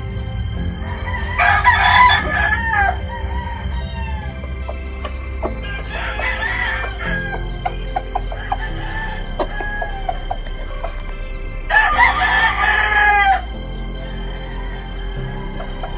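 Gamefowl roosters crowing again and again: three long crows come about a second in, near six seconds and near twelve seconds, the last the loudest. Between them are fainter clucks and short calls.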